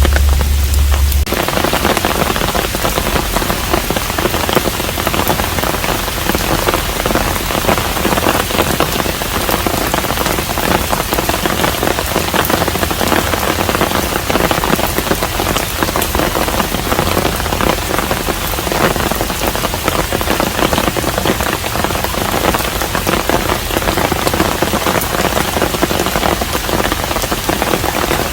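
Steady rain falling on a traditional Korean hanok house, an even hiss of rain with many small distinct drops. A low rumble in the first second cuts off abruptly.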